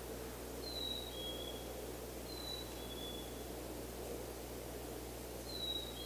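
A songbird's clear two-note whistled song, a higher note followed by a slightly lower one, repeated three times over a steady outdoor background hiss.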